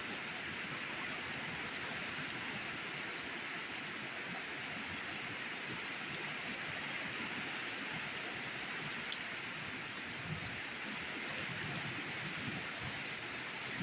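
Torrential rain from a summer pulse thunderstorm pouring down steadily, a dense even hiss with scattered individual drop ticks.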